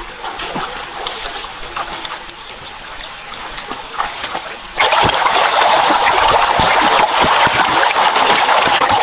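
Water splashing and trickling. The sound jumps suddenly louder and fuller about five seconds in, and a thin steady high tone heard before the jump stops there.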